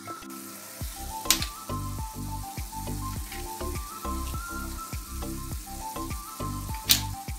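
Food sizzling in oil in a pan under background music, with two sharp knocks, one about a second in and one near the end.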